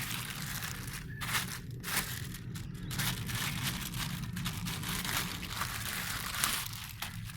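Packaging crinkling and rustling, with scattered clicks and knocks, as a new cordless vacuum is handled out of its box.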